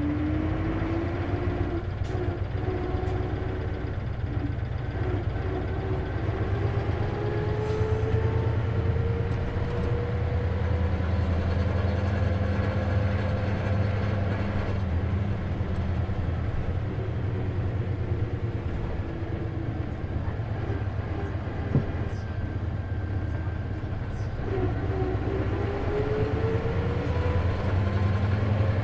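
Interior sound of an Isuzu KC-LV380N manual-transmission city bus under way: a low engine hum with a whine that rises in pitch as the bus gathers speed, twice, which is the abnormal noise this bus is known for. A single sharp click near the end.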